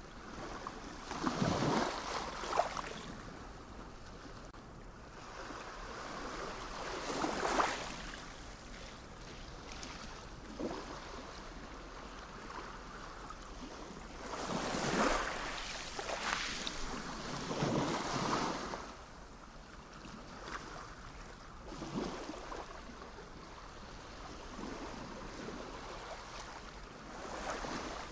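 Sea waves breaking and washing up, in irregular surges a few seconds apart, with the strongest in the middle of the stretch.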